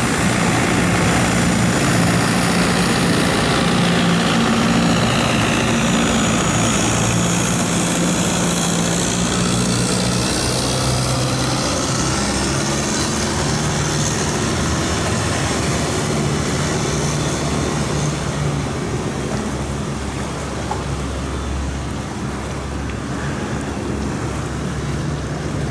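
Long-tail boat engine running steadily under way, its low note holding fairly even over a broad rushing hiss.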